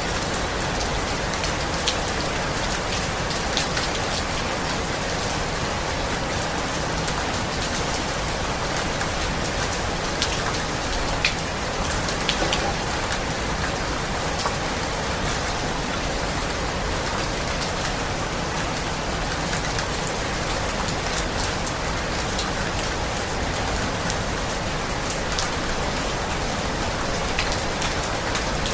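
Stormy night weather in forest trees: a steady rushing hiss of strong wind and rain with scattered light ticks and taps.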